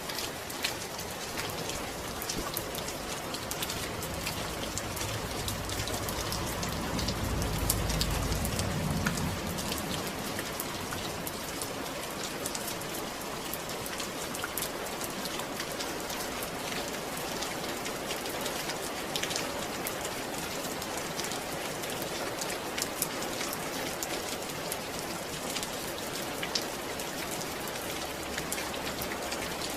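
Steady rain falling, with a dense patter of single drops striking a surface. A low rumble swells briefly about seven to nine seconds in.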